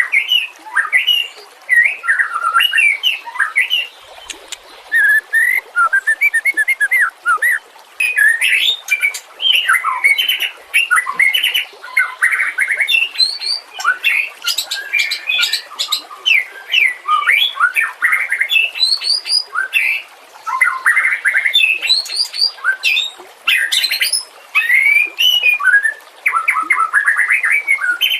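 White-rumped shama (murai batu) singing loudly and continuously: a varied run of rich whistled notes, fast trills and quick sweeping phrases, separated by brief pauses.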